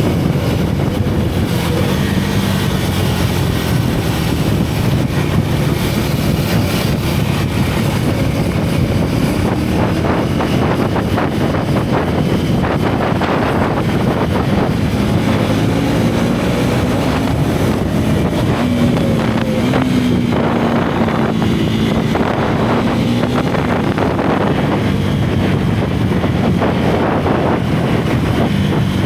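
Single-cylinder motorcycle engine running under way, its pitch rising and falling as the throttle opens and closes, with wind rushing over the microphone.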